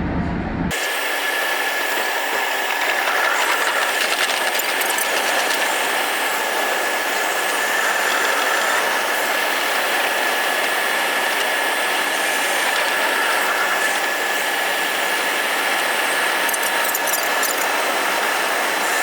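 Electric train running along the track, a steady rolling hiss with a steady high whine, as heard from the front of the train. The sound changes abruptly about a second in, when the deep rumble drops away.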